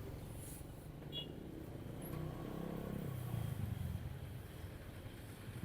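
Motorcycle engine running at low revs, its pitch rising a little midway and easing off again.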